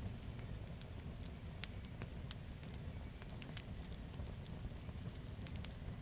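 Campfire burning, its wood crackling with irregular sharp pops, several a second, over a steady low rumble.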